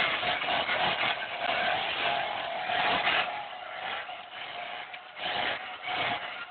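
Volvo 240 being driven: its engine runs under a rushing noise that is loud for the first few seconds, dips for a second or two past the middle, then rises again.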